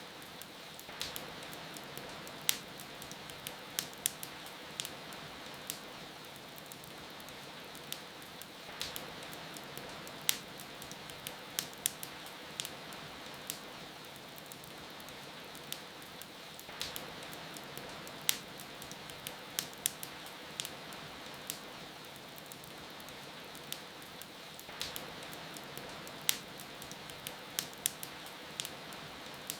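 Wood fire crackling and popping over a steady hiss of rain, with sharp snaps scattered throughout and denser spells of crackle about every eight seconds.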